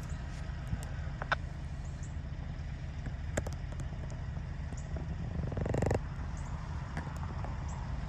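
Diesel locomotives of a freight train running with a steady low rumble, with scattered sharp clicks and a louder rush of noise about five and a half seconds in.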